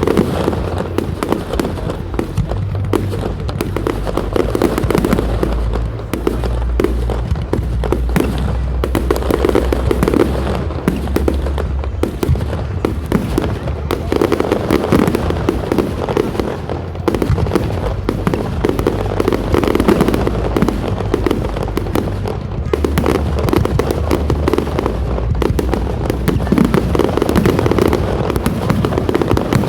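Fireworks display finale: a dense, unbroken barrage of firework bangs, many shells going off in quick succession with no pause.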